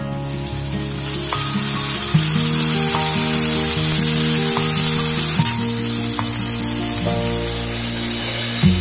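Hot oil in a kadai sizzling as a curry gravy is poured in over frying onions and vegetables, the sizzle building about a second in while a ladle stirs. Background music plays with held notes.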